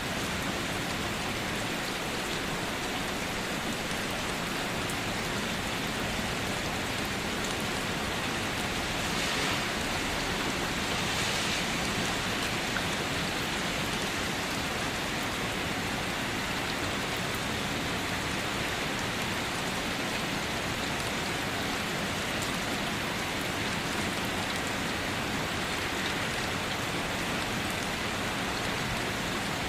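Steady rainfall, an even hiss of rain pattering on surfaces, with no thunder.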